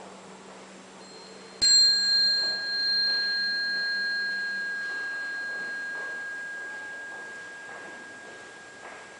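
A small bell struck once, ringing with a clear high tone that fades slowly; its highest overtones die away first.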